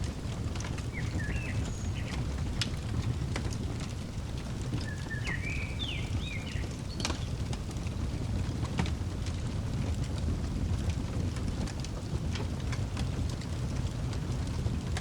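Fireplace crackling, with scattered sharp pops over a steady low rumble. A small bird chirps in two short phrases, about a second in and again around five seconds in.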